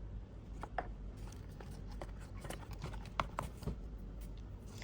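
Scattered light clicks and taps of small plastic headset parts being handled, over a low steady hum.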